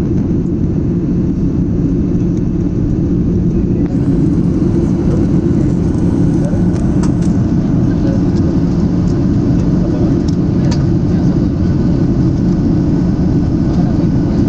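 Steady cabin noise of an airliner in flight: a dense, even rumble, heaviest in the low range.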